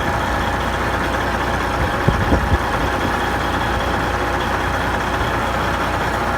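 Loud, steady motor running at a constant speed, with a low hum and a steady mid-pitched whine, and a couple of brief knocks about two seconds in.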